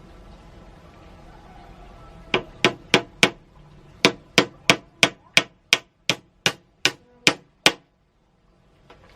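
A series of sharp, regular knocking strikes, about fifteen in all: four in quick succession, a short pause, then about eleven more at roughly three a second.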